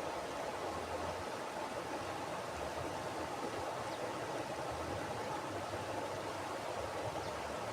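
Mountain river flowing steadily: an even, unbroken rush of water over rocks, fullest in the middle range, with a faint low rumble.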